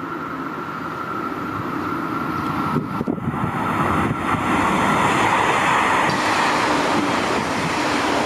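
JR Shikoku 8600 series electric limited express train approaching out of a tunnel and running past the platform at speed, its running noise growing louder until it is alongside.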